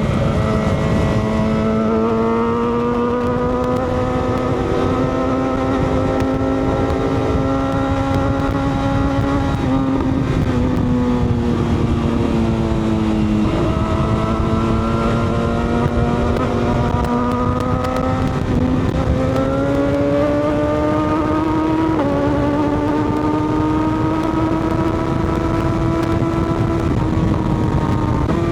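Motorcycle engine running while ridden, its pitch slowly rising and falling with a few sudden steps like gear changes, over heavy wind and road rush.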